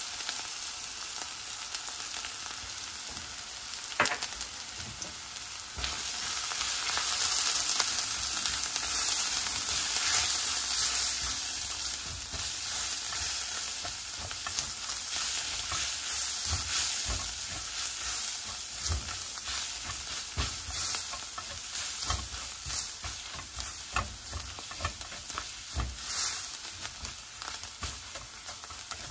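Chopped onions and ground spices sizzling in hot oil in a wok, stirred and scraped with a spatula against the pan. The sizzle is a steady hiss with frequent small scrapes, growing louder for several seconds about six seconds in.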